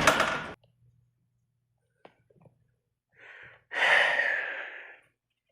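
A person sighing heavily in exasperation: a short breath, then a long loud exhale that fades away. A loud rush of noise at the very start cuts off abruptly about half a second in.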